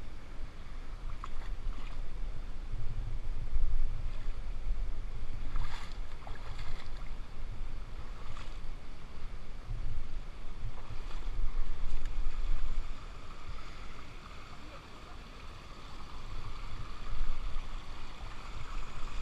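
Rushing water of a waterfall, a steady hiss, with gusts of wind buffeting the microphone in an uneven low rumble.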